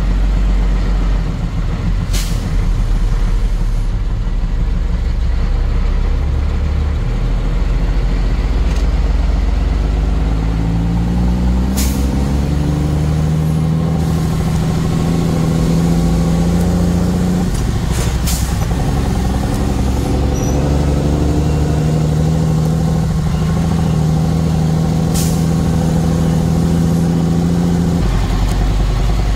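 Truck engine running steadily under way, its pitch rising from about a third of the way in and then holding at higher revs. A few brief sharp sounds cut in, about four in all.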